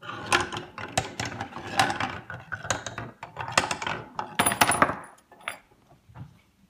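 Balls clattering and knocking through the pieces of a marble run toy: a dense run of clicks and knocks for about five seconds, then a few scattered taps.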